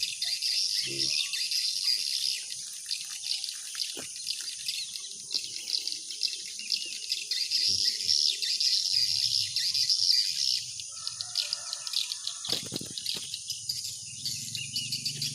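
Dense, continuous twittering of many swiftlets inside a swiftlet house, rapid high chirps overlapping without a break.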